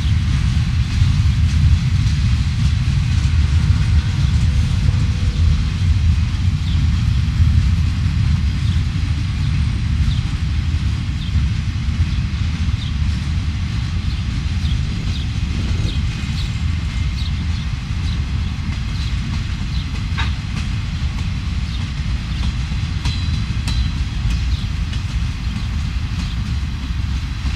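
Freight train cars rolling along the track, a loud steady low rumble with scattered short high squeaks and clicks from the wheels.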